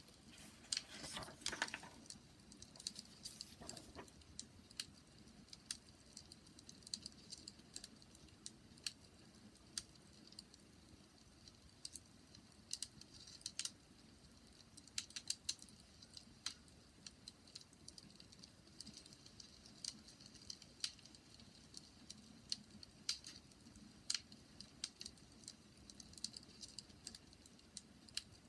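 Wood fire crackling: irregular sharp pops and snaps over a faint steady hiss, with a short burst of denser crackling about a second in.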